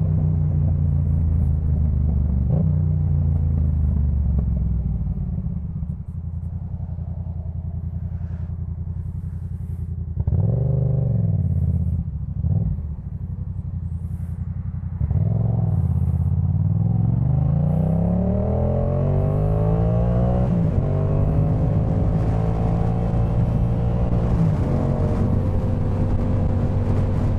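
Yamaha MT-07's 689 cc parallel-twin engine breathing through a Jeskap K4 full exhaust system, on the move: it winds down to a low rumble, gives two short throttle blips midway, then accelerates through the gears with the pitch climbing and dropping at each shift before settling into a steady cruise.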